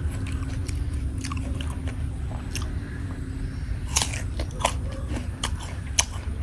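A person biting into and chewing crunchy raw fruit, with sharp crunches at irregular intervals; the loudest come about four and six seconds in.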